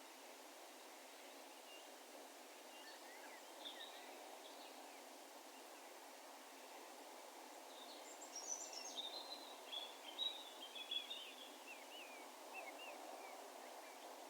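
Distant songbird calling over steady, faint outdoor ambience: a few short chirps about three seconds in, then a longer, busier twittering song from about eight seconds in that fades out near the end.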